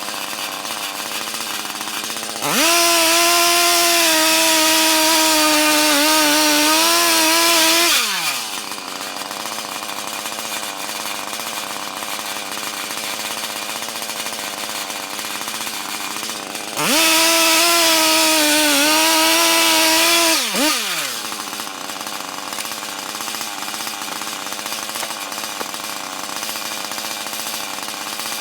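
Large two-stroke Stihl chainsaw milling with an Alaskan chainsaw mill. It revs up to full throttle twice, for about five seconds and then about three and a half, each time gliding back down to a lower, steadier running sound in between.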